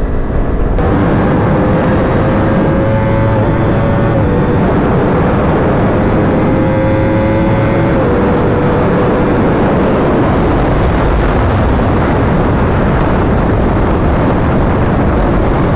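Yamaha R1's inline-four engine pulling under acceleration, its pitch climbing and then stepping down at two upshifts about four and eight seconds in, under a heavy rush of wind noise on the microphone.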